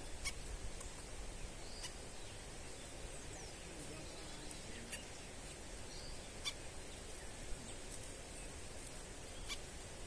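Small birds calling faintly at a fruit feeder: a few short high chirps, with about five sharp ticks scattered through, over a steady outdoor hiss.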